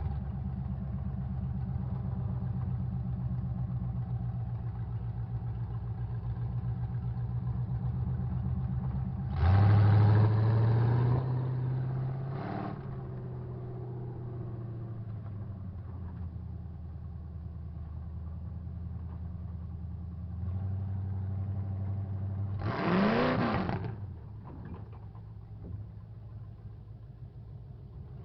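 Truck engines running steadily, with one revved hard about ten seconds in and another revving up near the end; there is a short sharp noise just after the first rev.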